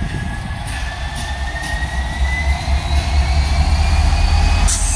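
A train rolling along the track: a steady low engine rumble with a thin whine slowly rising in pitch and a few sharp clicks of wheels over rail joints, growing louder towards the end.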